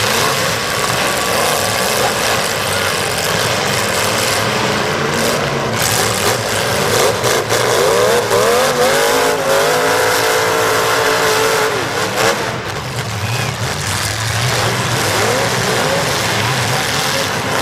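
Demolition derby cars' engines revving hard, rising and falling in pitch, with a few sharp bangs about a third of the way in and again past the middle.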